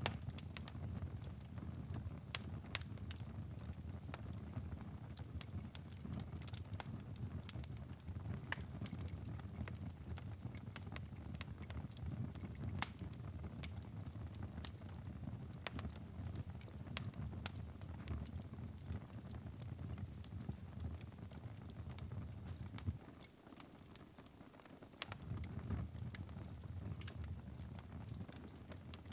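Wood fire burning in a fireplace, crackling with irregular sharp pops and snaps over a low, steady rumble of flame. The rumble drops away for about two seconds about three-quarters of the way through while the pops go on.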